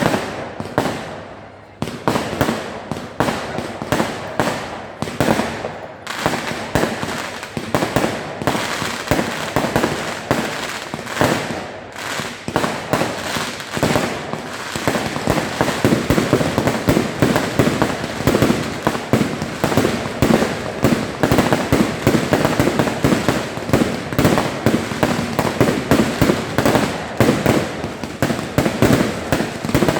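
Fireworks display: a rapid run of bursting shells and bangs, one after another. They grow denser and louder about halfway through, into an almost continuous barrage.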